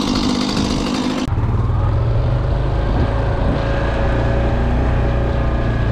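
Two-stroke chainsaw running for about a second. Then, after an abrupt cut, a steady low engine drone takes over.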